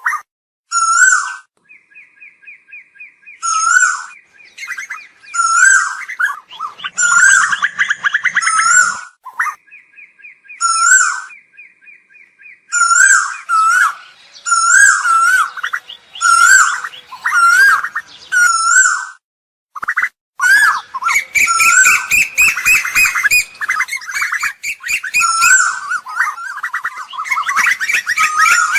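Asian koel calling: short, wavy, high calls repeated about once every second or two, with two stretches of rapid, even-pitched trilling early on and a dense run of overlapping calls in the last third.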